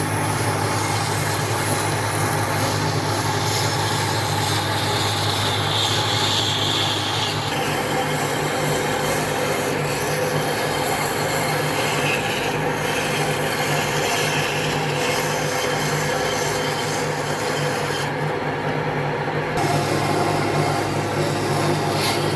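An electric power tool running steadily on wood, a continuous grinding, abrading sound over a low motor hum, with a shift in tone about a third of the way in.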